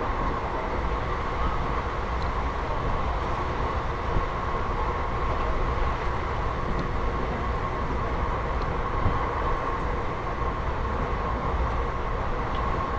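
Passenger train coach running at speed, heard from an open window: a steady rumble of wheels on the rails with a steady high hum over it.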